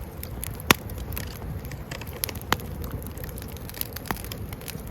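Wood campfire burning and crackling, with a few sharp pops, the loudest under a second in.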